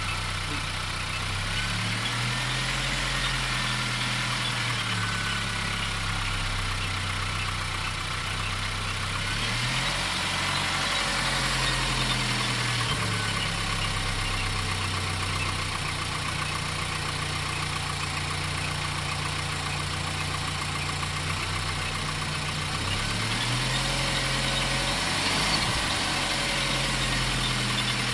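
Volkswagen Golf Mk7 engine idling. Its speed steps up to a higher steady pitch and back down several times, holding each level for a few seconds.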